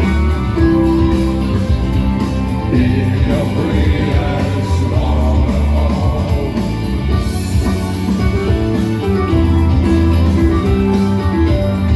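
Live band playing a song with a sung vocal, guitars and a steady bass line.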